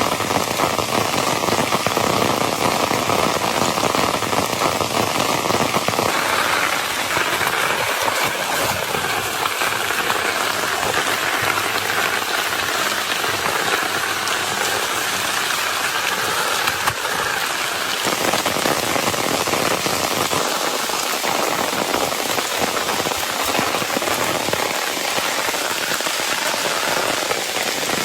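Heavy rain falling steadily, a dense patter of drops. A thin, steady high tone sits under it and stops about six seconds in.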